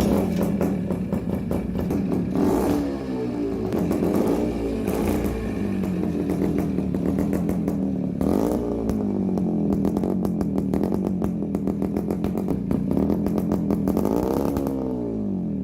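Rebuilt Kawasaki motorcycle engine running at a steady idle, with several throttle blips whose pitch rises and falls: about two and a half seconds in, around five and eight and a half seconds, and again near the end.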